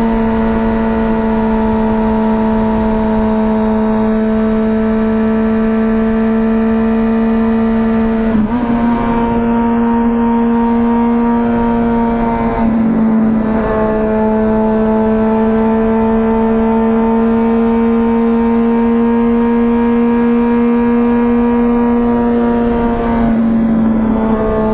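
2004 Honda CBR1000RR Fireblade's inline-four running through an aftermarket Jardine titanium exhaust at a steady, held throttle. The note dips and picks back up briefly about a third of the way in, around halfway, and again near the end. Wind rushes on the microphone throughout.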